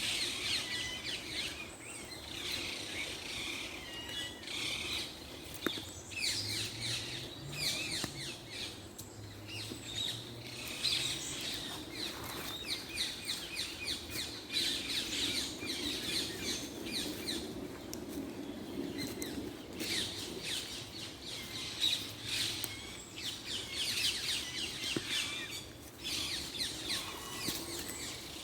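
A chorus of small birds chirping, many quick short calls overlapping without a break, over a faint low steady hum.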